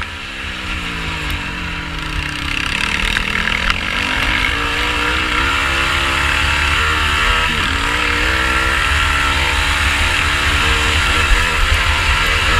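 Quad bike engine being ridden hard, the revs falling and rising again and again as the throttle is worked, over a steady low rumble.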